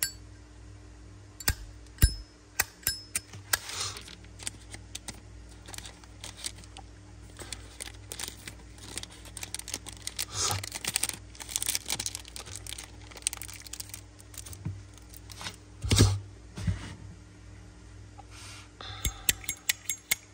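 Metal Zippo lighter cases being handled: irregular sharp clicks and taps, with stretches of scratchy rubbing and rustling.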